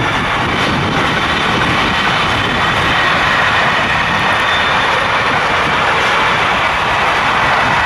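A train passing close by at speed: a loud, steady rush of wheels on rails.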